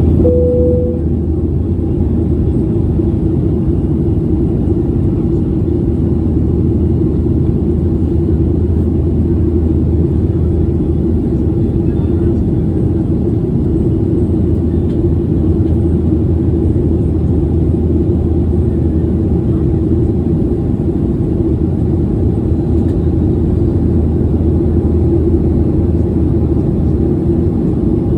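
Steady, loud cabin noise of a jet airliner in its climb, the engines and airflow heard from inside the passenger cabin as an even low rumble with a constant hum. A brief single tone sounds right at the start.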